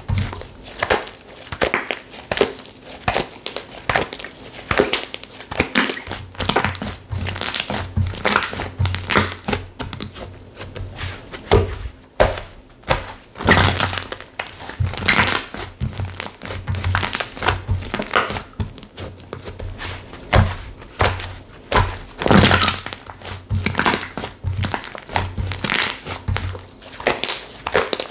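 Slime being squeezed, poked and stretched by hand, making a dense run of sticky clicks and pops with soft low thuds.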